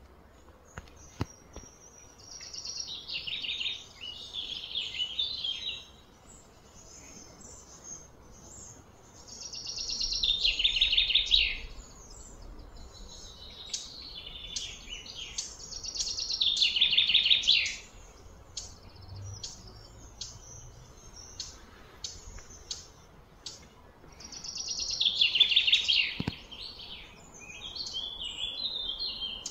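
A wild bird singing: five loud, high-pitched trilled phrases of about two to three seconds each, with softer short chirps in between.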